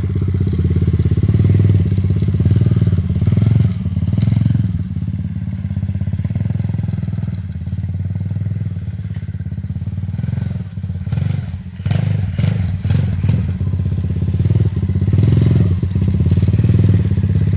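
Kayo TD125 dirt bike's 125cc single-cylinder four-stroke engine running steadily, its speed rising and falling a little, with a few clicks about two-thirds of the way through.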